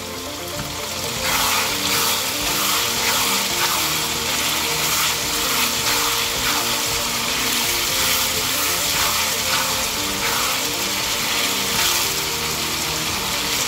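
Boneless chicken pieces frying over a high flame in a wok, sizzling steadily as a wooden spatula stirs and scrapes them. The sizzle grows louder about a second in.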